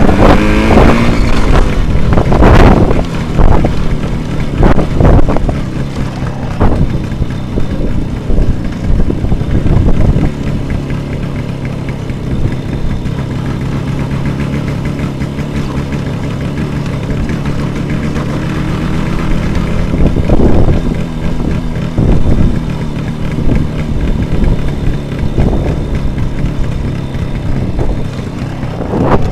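Jawa 638 two-stroke twin motorcycle engine under way, revving up repeatedly in the first ten seconds as it pulls through the gears, then running steadily. The engine rises again about twenty seconds in and once more near the end.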